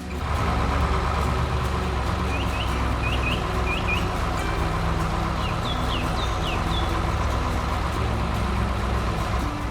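A heavy vehicle's engine running steadily, with birds chirping in short runs twice.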